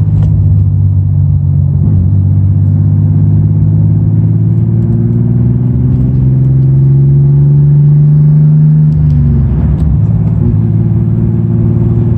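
BMW E36's engine running under way, heard from inside the cabin, its drone rising slowly in pitch for several seconds and then falling abruptly about nine seconds in.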